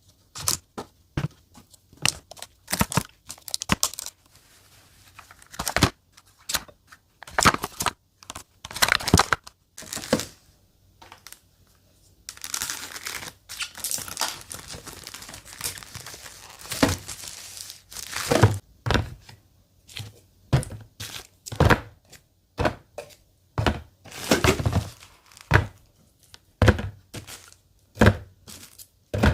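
Plastic food packaging crinkling and being torn open, with short knocks and clicks as containers are handled and set down.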